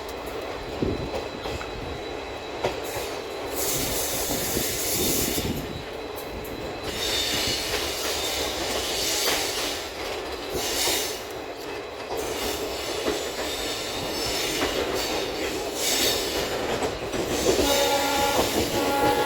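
Passenger train behind a WDP4D diesel locomotive running on the rails, with the wheels squealing in several stretches of a few seconds each. Near the end the locomotive's horn begins to sound.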